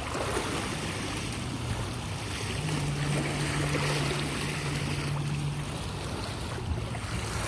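Lake water washing and lapping at the shore, an even hiss of water noise, with a low steady hum underneath that grows stronger for a few seconds in the middle.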